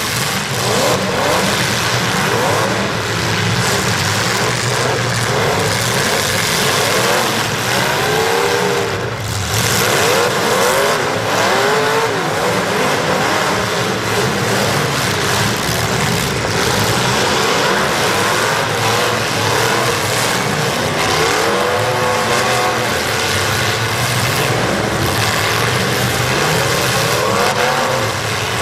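Several demolition derby car engines running loudly at once, revving up and down over and over.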